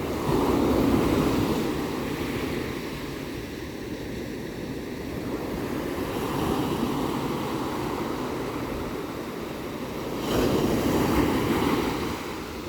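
Ocean surf washing steadily onto a shore, with a louder wave breaking at the start and another about ten seconds in.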